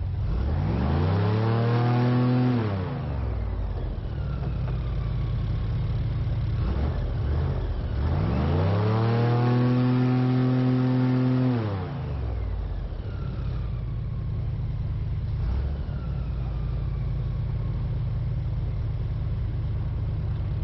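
Airboat engine and propeller revving up and easing back down twice, the second rev held for a few seconds, with the engine running at a steady lower pitch in between.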